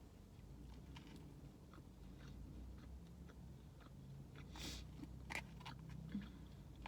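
Faint chewing: soft, scattered mouth clicks over a low steady hum, a little louder for a moment about four and a half seconds in.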